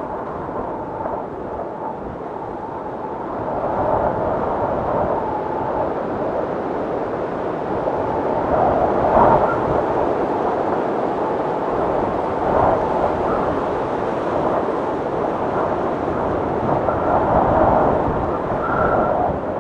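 Strong blizzard wind blowing continuously, surging in gusts every few seconds, with brief higher whistles.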